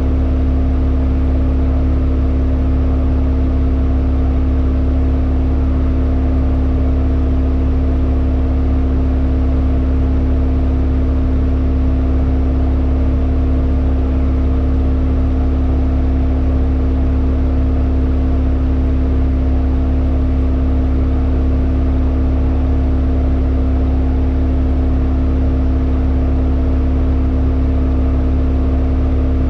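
Hyundai Elantra N's turbocharged four-cylinder engine idling at a steady, unchanging pitch, with no revving.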